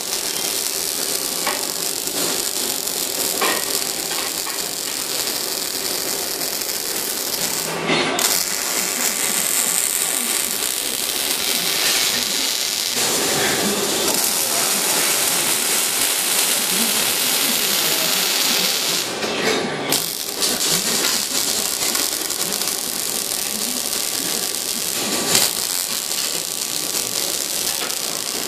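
OTC AII-V6 six-axis robotic arc welder laying a weld bead on a motorcycle swingarm: a steady crackling hiss from the arc, with brief breaks about eight and twenty seconds in.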